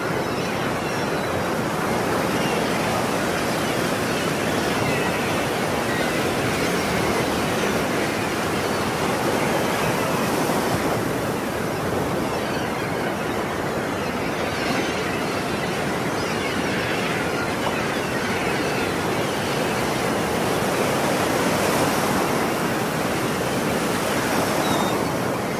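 Ocean surf: waves breaking and washing ashore in a continuous rushing wash, swelling slightly twice, about ten seconds apart.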